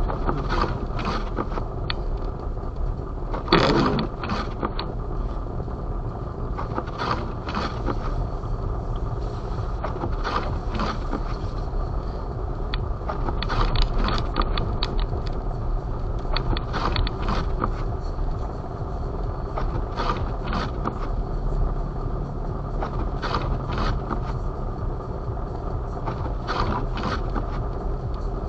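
Blizzard wind buffeting the microphone: a steady low rumble broken by irregular gusts every second or so, one stronger gust a few seconds in.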